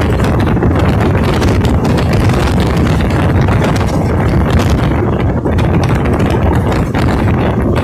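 Passenger train running at speed, heard at an open carriage door, with loud, steady wind rushing past and buffeting the microphone.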